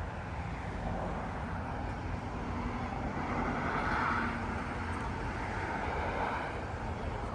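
Freight train rolling over a grade crossing: a steady deep rumble with wheel-on-rail noise, swelling about four seconds in.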